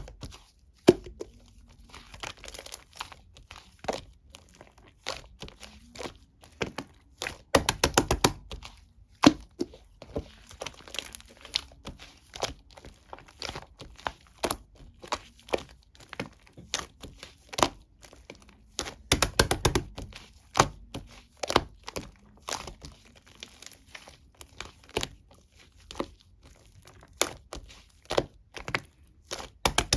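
Mixed slime being squished and poked by hand, giving sharp clicking pops and crackles, with two dense runs of rapid crackling about 8 and 19 seconds in.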